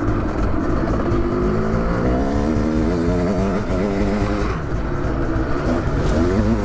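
Custom-built 700cc two-stroke dirt bike engine running on the move, its pitch climbing and falling several times as the throttle is worked.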